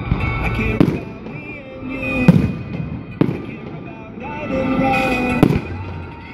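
Fireworks shells bursting in a display, about five sharp bangs at irregular intervals, over music played through loudspeakers.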